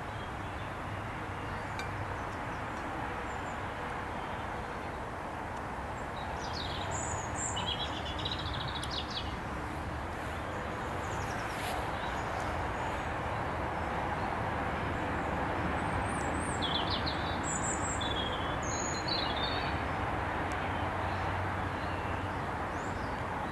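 Birds chirping in two short spells, about seven seconds in and again from about sixteen to twenty seconds, over a steady low rushing background that grows slightly louder.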